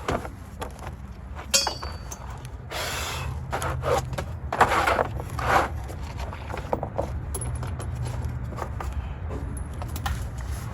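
Metal hand tools clinking and scraping against metal parts in a series of irregular clicks and short scrapes, over a steady low hum.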